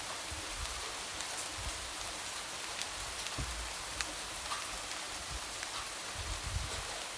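Light rain falling steadily, with scattered drops tapping against a window pane and soft low thuds of heavier drops now and then.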